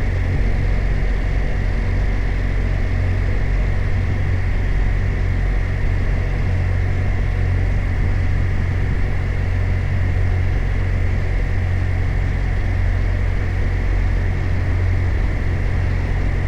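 BMW R 1250 RT's 1254 cc boxer twin engine running steadily while the motorcycle cruises at an even pace, with no revving or gear changes.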